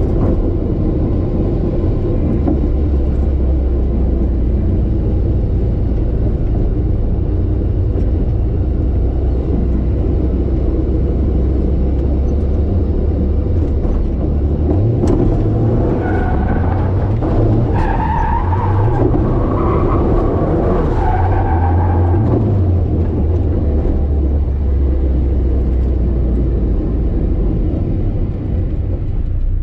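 Car engine running hard under load in a drift run. From about halfway through, tyres squeal for several seconds.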